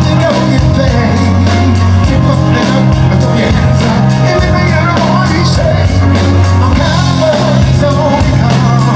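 Live band playing upbeat rock-style music, with a singer over steady bass notes.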